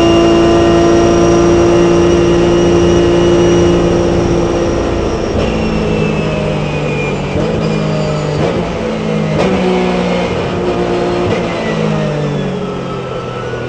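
Porsche 997 Cup race car's flat-six engine heard onboard, held steady at high revs. About four seconds in it gets quieter and the pitch drops in steps through several gear changes, with a few sharp pops, then it changes gear again at middling revs.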